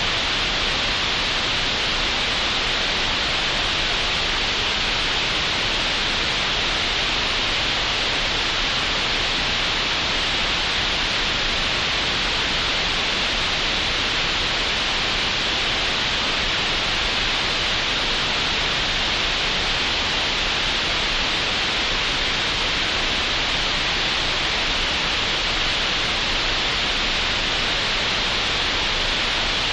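Steady synthetic green noise made in Audacity: an even, unchanging hiss, brightest in the upper mids.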